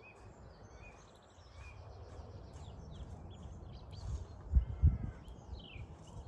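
Several small birds chirping and trilling over a breeze, with low wind rumble on the microphone that buffets loudest twice about three-quarters of a second apart, past the middle.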